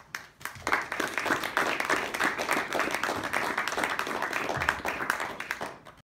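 Audience applauding, swelling within the first second and dying away near the end.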